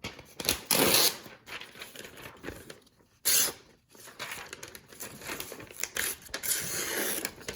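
A freshly sharpened pocket-knife Wharncliffe blade slicing through paper in a few long hissing cuts, with the paper crinkling as it is handled. This is a sharpness test of the edge.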